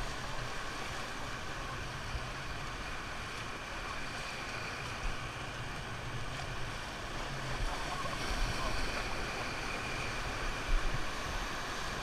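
Steady rush of river water around an inflatable raft, with a low rumble of wind on the microphone.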